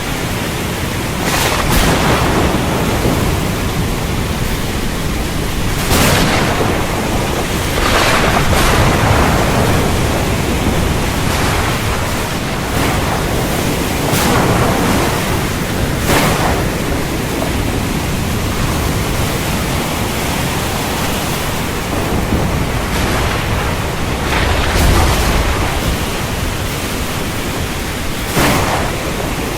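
Steady heavy rain, broken by sudden cracks of thunder about seven times and a low rumble a little past the middle.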